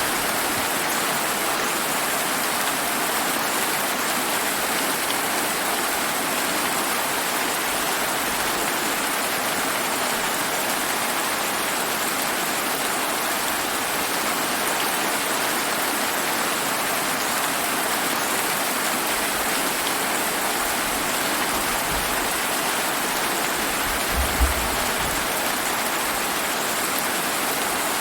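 Steady heavy rain, a dense even hiss of drops falling. A few short low rumbles come through underneath, the strongest a brief one near the end.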